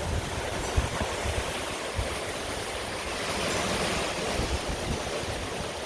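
Strong gusting wind, gusts the uploader puts at maybe 50–60 mph, rushing steadily and buffeting the microphone with irregular low rumbles.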